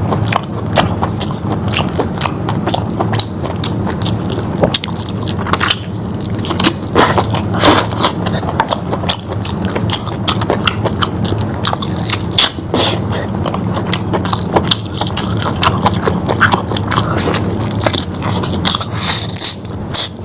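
Close-up eating sounds of lamb meat being bitten and chewed: irregular wet clicks and crackles that come and go.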